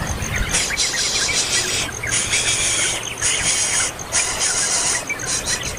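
Small birds chirping with short quick calls, broken by four long high rasping hisses of about a second each.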